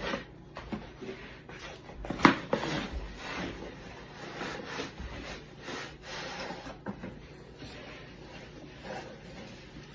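Soft rubbing and rustling of packaging being handled and opened, with a sharper knock about two seconds in.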